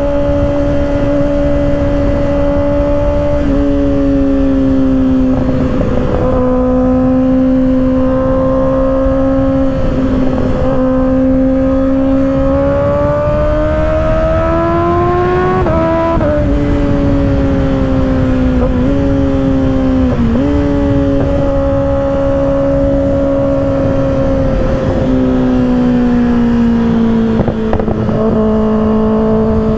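2024 Kawasaki ZX-6R inline-four with an M4 exhaust, running at high revs at freeway speed under steady wind noise. The revs climb for a few seconds past the middle, then drop sharply, dip briefly twice, and ease down near the end.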